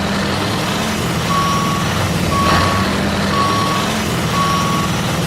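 A truck's reversing alarm beeping at an even pace, about once a second, starting about a second in, over a low steady engine rumble.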